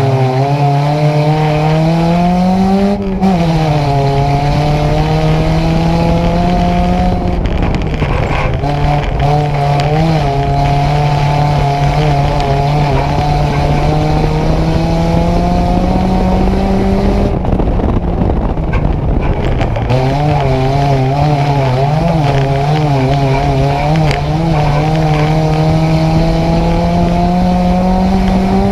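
Nissan Micra race car engine heard from inside the car at racing speed. The revs climb slowly for several seconds at a time, then fall away sharply, about four times, as the driver lifts off and gets back on the throttle.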